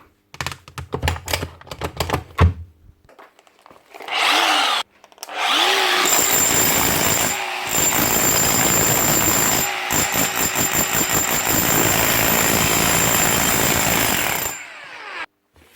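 Makita HR3540C rotary hammer with a newly fitted motor, switched on: a short burst, then running for about nine seconds with a high steady whine, dropping out briefly twice, before it stops. Its new motor runs smoothly, 'like new'. A few knocks and clicks from handling the tool come in the first few seconds.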